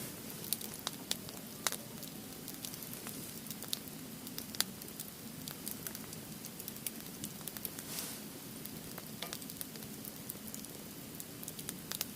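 Firewood burning in a fire pit, crackling with irregular sharp pops over a steady low hiss; one pop about four and a half seconds in is the loudest.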